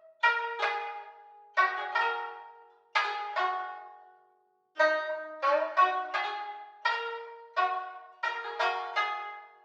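Koto and tsugaru shamisen playing a melody together: plucked notes, mostly in pairs, each ringing and fading, with a short break about four seconds in before a quicker run of notes.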